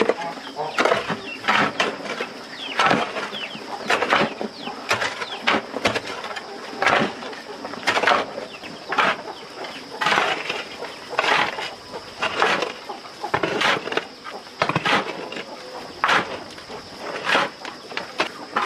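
A long series of sharp knocks or strikes, irregular at about one or two a second, over a steady high-pitched whine.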